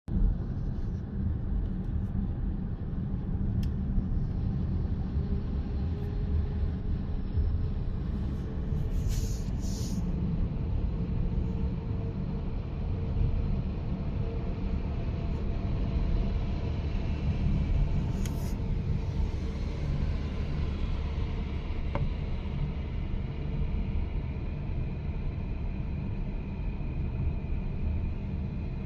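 Heavy Shacman 6x4 tractor truck's diesel engine and drivetrain running on the road, a steady low rumble. Two short hisses sound about nine and eighteen seconds in.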